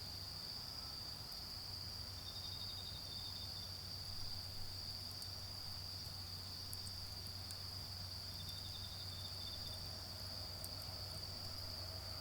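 Autumn insects singing: one holds a continuous high, steady trill while a second chirps in quick pulses twice, briefly each time.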